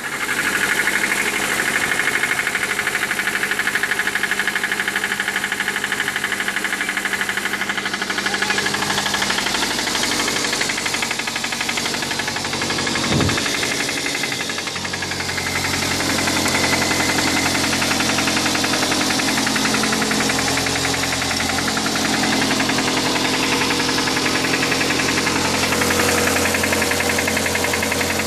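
Suzuki Aerio's four-cylinder engine running with a rapid, even rod knock, the sign of a failed connecting-rod bearing.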